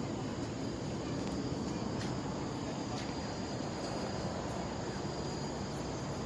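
Outdoor ambience: a steady low rumbling noise with a faint, steady high-pitched insect drone over it.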